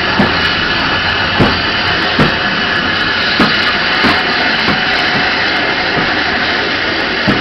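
Train in slow motion, heard from the open end of a brake van coupled to the LBSC Terrier tank engine No. 672 Fenchurch: a steady rushing noise with short, unevenly spaced knocks about once a second from the wheels running over rail joints.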